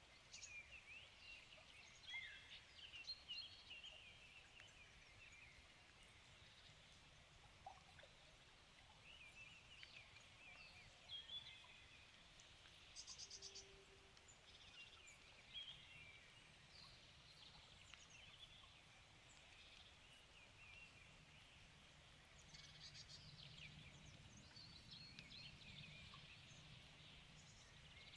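Faint evening songbird chorus: several birds chirping and warbling in short phrases, with a quick rapid trill about halfway through. A faint low hum rises underneath in the second half.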